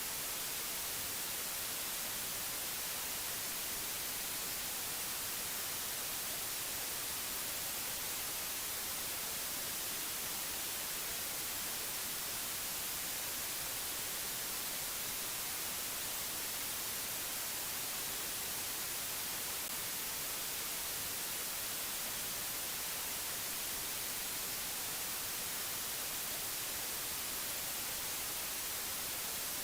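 Steady, unchanging white-noise hiss, strongest in the high treble, with no other sounds.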